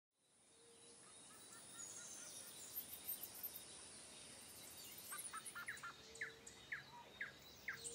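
Faint outdoor ambience fading in: a steady hiss with birds chirping. In the second half the chirps come as a run of quick repeated notes, about two a second.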